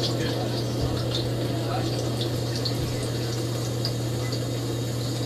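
Dishwasher running, heard from inside the tub: a steady low pump-motor hum under the hiss and patter of spraying water.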